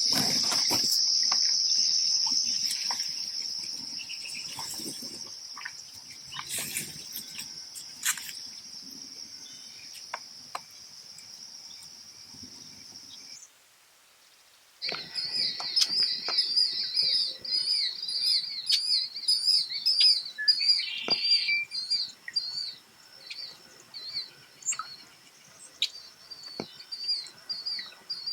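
A steady high-pitched insect buzz that slowly fades, then, after a short break about halfway through, red-winged blackbirds calling: many quick, repeated high trills and chirps.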